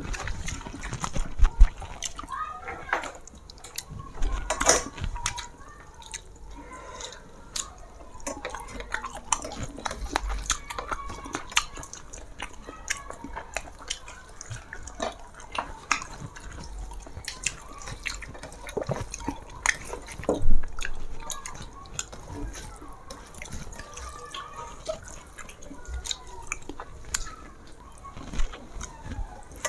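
Close-up eating sounds: irregular wet chewing and lip smacks while eating a fish curry with taro.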